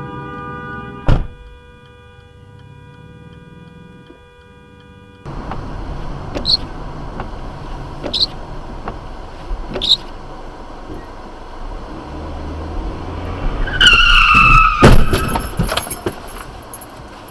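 Road traffic sound from car crash footage: a sharp bang about a second in, then after a cut steady road noise with three short high chirps. Near the end comes a loud falling tyre screech and a crash with heavy bangs.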